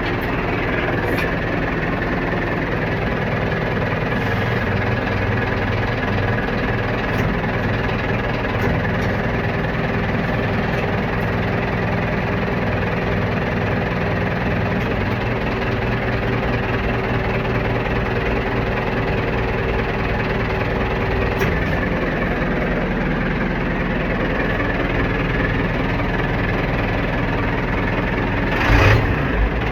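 Ford backhoe engine running steadily at idle, with a brief loud knock near the end.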